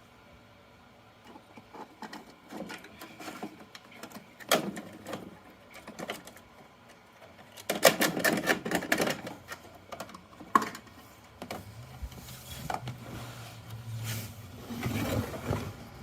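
Plastic toy garbage truck being handled: irregular clicks and rattling of its plastic parts, with a dense clatter about eight seconds in, like small toy trash being tipped. A low hum comes in for a few seconds near the end.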